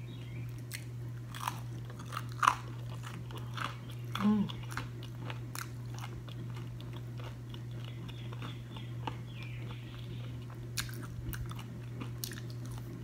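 A person chewing and crunching crisp food close to the microphone, a hummus-dipped chip or breaded fried avocado, with scattered short crunches. A steady low hum runs underneath.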